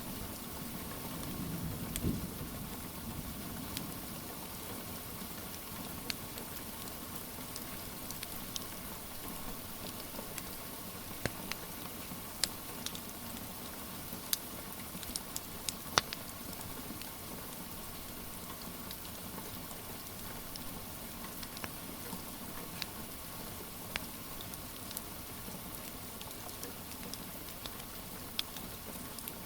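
Steady rain hiss with the scattered sharp pops and crackles of a wood fire, the loudest pop about halfway through. A brief low rumble comes about two seconds in.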